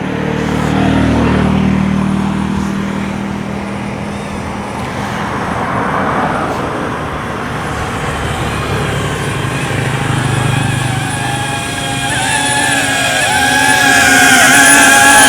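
Road traffic passing with a low engine hum, then about twelve seconds in a DJI Avata 2 FPV drone's ducted propellers come in with a wavering high-pitched whine that grows loud as the drone returns.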